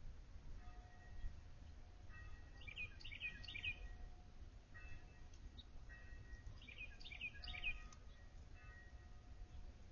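Backyard songbirds giving short chirps in two quick clusters, about three seconds in and again about seven seconds in, over a low steady background rumble with a few faint held tones.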